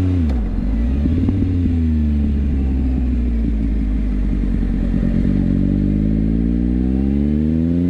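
Triumph Speed Triple 1050's three-cylinder engine as the bike is ridden. The revs drop sharply at the start and hold low and steady for a few seconds, then climb smoothly as the bike accelerates.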